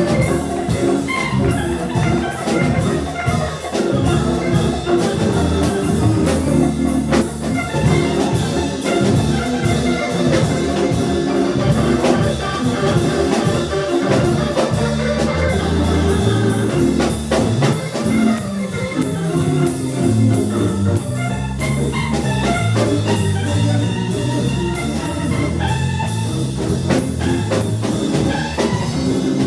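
Live instrumental jazz-style band music: drum kit with a steady run of cymbal and drum strokes under a moving bass line and organ-like keyboard chords.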